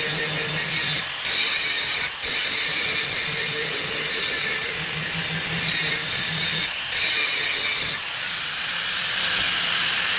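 A machine running steadily with a high-pitched whine over a hiss, briefly dipping a few times.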